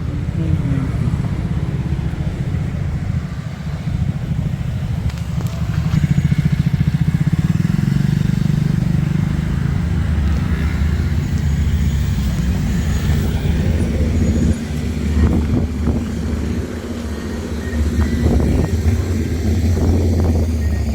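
A motor vehicle's engine running with steady road noise, the engine note rising and growing louder about six seconds in and again about fifteen seconds in.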